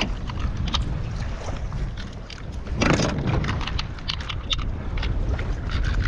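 Wind buffeting the microphone with small water splashes and slaps against a kayak's hull; a louder splash comes about three seconds in.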